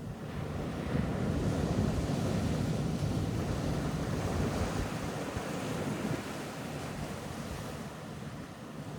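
Ocean waves breaking and washing up on a beach: the surf swells about a second in and eases off after about six seconds.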